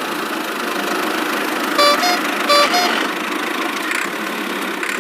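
Vehicle engine sound effect running steadily, with a two-note horn beeped twice about two seconds in.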